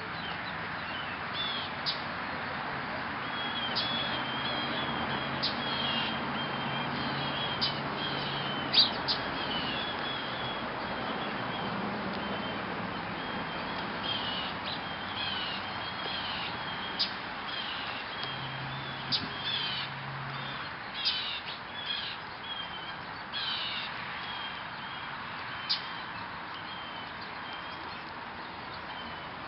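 Small birds chirping: many short, high chirps and quick runs of notes, over a steady background hiss.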